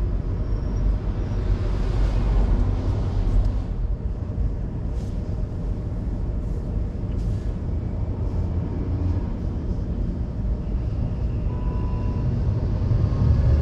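A car driving on city streets: steady low rumble of road and engine noise, with a few faint ticks about five to seven seconds in.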